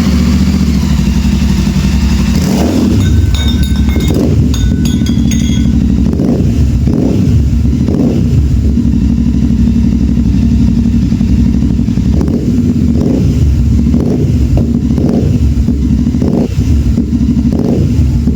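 Motorcycle engine running through a freshly fitted Gursewak Big Shot aftermarket exhaust, loud and steady, with a deep, even beat and repeated short throttle blips.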